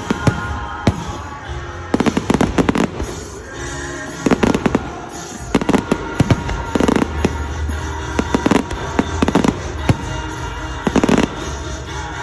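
Fireworks going off in clusters of rapid sharp bangs every second or two, over steady background music.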